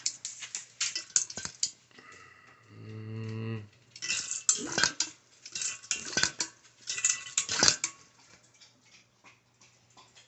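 Auto-siphon being pumped and jostled in the fermenter to restart a siphon that has stopped near the end of racking: hard plastic clattering and knocking in several bursts. There is a brief low steady hum about three seconds in.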